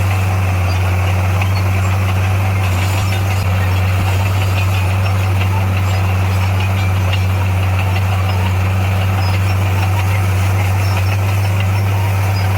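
Bulldozer's diesel engine running steadily, a constant low drone that holds the same pitch throughout.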